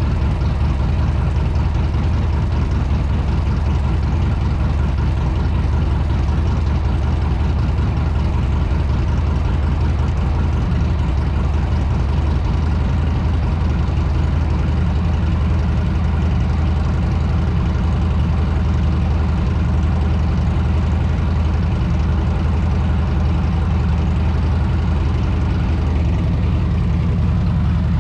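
Motorcycle engine running steadily at a constant pitch with no revving changes.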